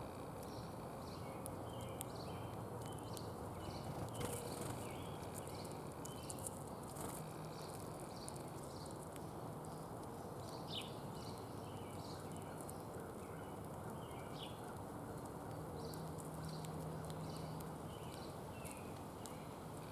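Small songbirds chirping at a feeder: many short chirps, several a second at times, with a few light clicks, over a steady outdoor hiss.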